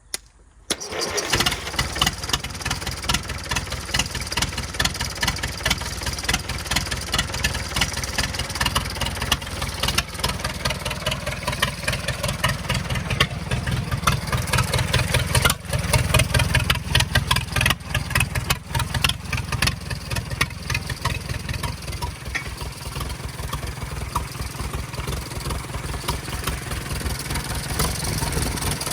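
International A414 tractor engine started with pliers because its ignition system doesn't work: a click, then it catches within about a second and runs steadily, somewhat louder for a few seconds around the middle.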